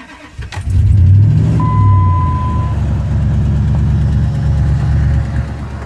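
2004 Dodge Ram 1500's engine cold-started in below-freezing weather: a brief crank, then it catches about half a second in, flares up loudly and settles into a steady idle.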